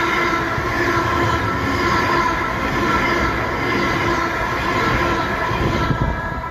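Electric passenger train running past a station platform: a steady rumble of wheels on rail with a whine in several pitches over it. The sound eases as the last carriage clears, about six seconds in.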